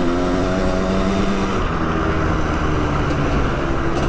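Custom 700cc two-stroke motocross bike engine running at fairly steady revs, its pitch shifting once about one and a half seconds in.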